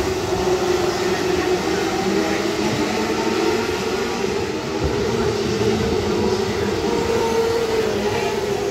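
An engine running steadily: a continuous low rumble with a steady drone, at an even loudness throughout.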